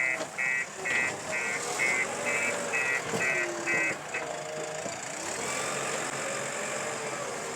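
Backhoe loader's reversing alarm beeping about twice a second, nine beeps that stop about four seconds in, over the machine's engine running with a wavering pitch.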